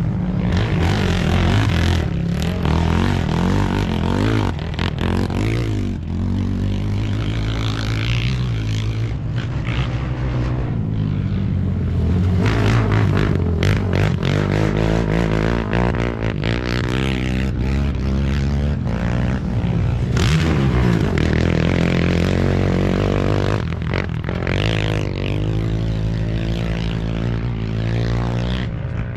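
Off-road race motorcycle and quad engines revving and changing pitch as they work through a dirt curve, running loud and continuously, with gravel and dirt scraping under the tyres.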